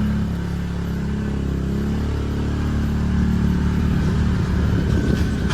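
Ranger utility vehicle's engine running steadily as it drives slowly along a rough woods trail, easing off just at the start and with some rattling near the end.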